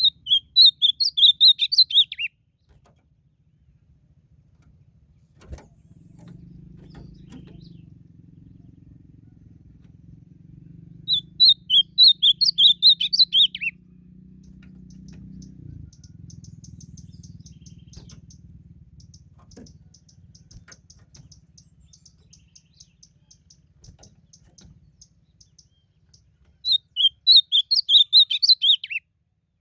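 Ultramarine grosbeak (azulão) singing three short song phrases, about 12 to 15 seconds apart, each a quick run of high notes that ends on a falling note. A faint low hum lies under the pauses between phrases.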